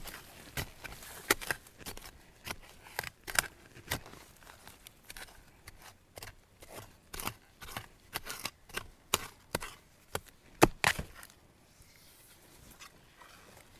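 Dry bamboo and twigs snapping and crackling in an irregular series of sharp cracks, with the loudest crack about three-quarters of the way through.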